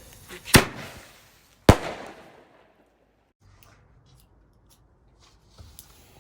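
Two loud firework bangs about a second apart, each trailing off in a short echoing rumble, followed by a few faint crackles.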